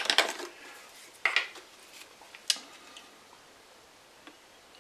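Three light clinks of small hard objects being handled, about a second apart, then quiet: die-cast metal toy car bodies and their container being set up for paint stripping.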